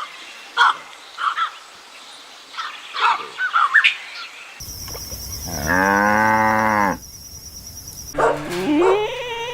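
A domestic cow mooing once, a single long call of about a second that rises and then falls in pitch, after a few seconds of short high chirps. A different animal's call begins near the end.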